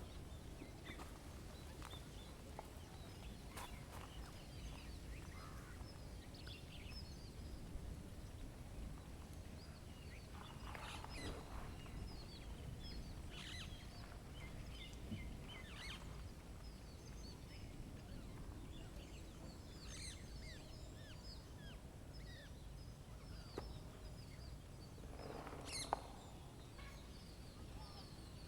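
Outdoor ambience: several small birds chirping and calling here and there, with a few louder calls, over a faint steady low rumble.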